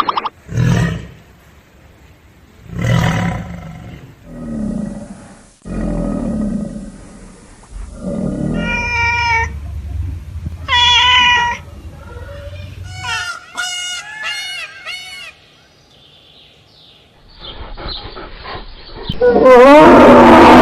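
A series of animal calls: several short, low calls in the first eight seconds, then higher calls with a clear, bending pitch between about eight and fifteen seconds in, and a long, loud call starting near the end.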